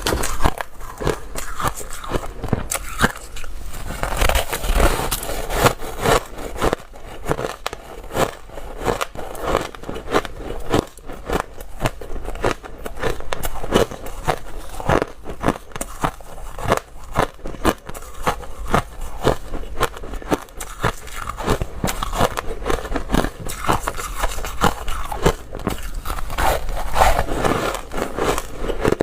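Dry, crunchy ice being bitten and chewed close to the microphone: a dense, irregular run of crunches and crackles as the ice breaks between the teeth.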